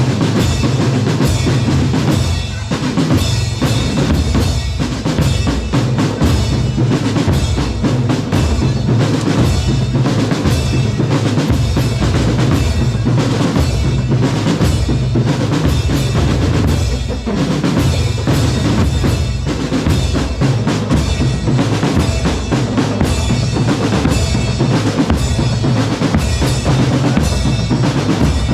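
A percussion corps drumming without pause, with deep bass drum beats under rapid snare strokes.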